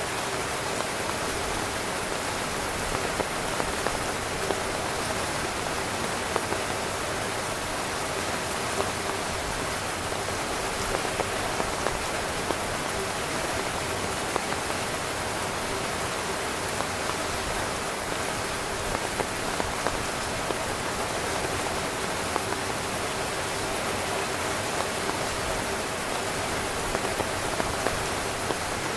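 Heavy rain drumming steadily on a tent's fabric, a dense even patter with frequent sharper individual drop hits.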